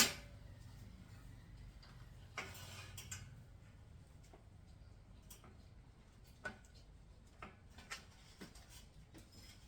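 Faint, scattered light clicks and taps from small objects being handled, with a short rustle about two and a half seconds in.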